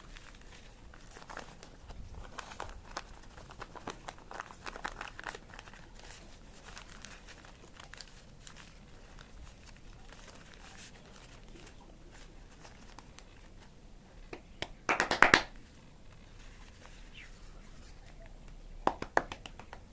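A sheet of paper being folded and creased by hand: scattered crinkling and rustling, with the loudest quick run of crackles about fifteen seconds in and another short run near the end.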